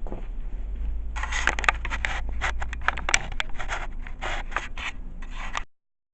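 Irregular rubbing and scraping close to the microphone, with sharp crackles mixed in: the recording device being handled. It starts about a second in over a low steady hum, and all sound cuts off suddenly near the end.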